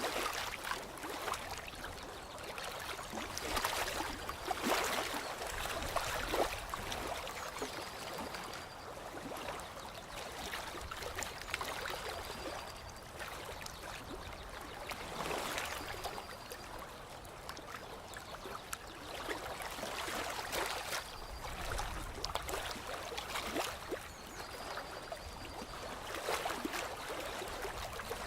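Flowing water trickling and splashing in uneven surges, with faint short high tones every few seconds.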